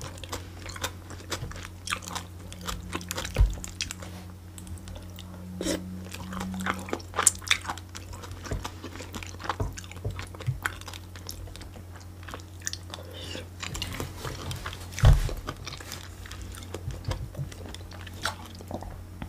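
A person chewing and biting food close to the microphone: irregular wet mouth clicks and crunches. Two dull thumps stand out, one a few seconds in and one past the three-quarter mark.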